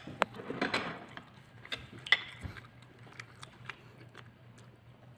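Close-up chewing of crunchy kangkong (water spinach): a run of sharp crunches and wet mouth clicks, busiest in the first second and again about two seconds in, then sparser.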